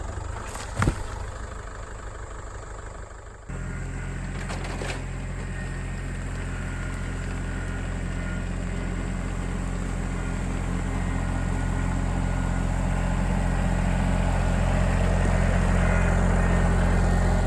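Tractor engine running steadily. It steps up abruptly about three and a half seconds in and grows louder toward the end. There is a single sharp knock about a second in.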